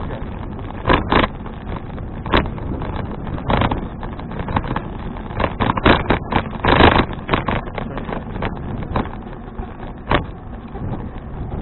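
Wind and road rumble on a riding bicycle's action-camera microphone: a steady low rumble broken by short loud bursts, the strongest about seven seconds in.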